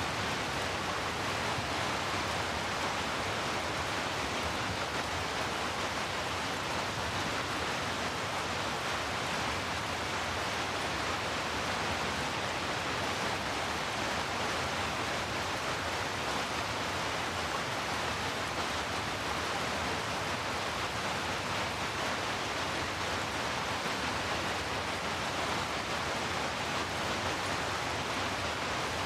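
Steady rain, an even unbroken hiss with no single drops, gusts or thunder standing out.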